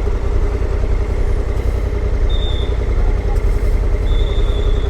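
Honda CRF1100L Africa Twin's parallel-twin engine running steadily while riding, a continuous low rumble with road and wind noise. Two short high beeps sound over it, one a little after two seconds in and a longer one near the end.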